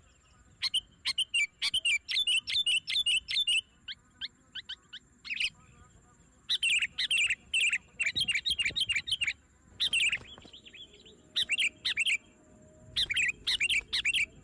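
Small birds chirping in quick repeated series, several bouts with short pauses between, over a faint steady high-pitched tone.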